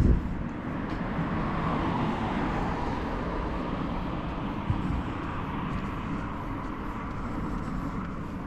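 A passing vehicle, its sound swelling over the first couple of seconds and then slowly fading, over a steady low outdoor rumble.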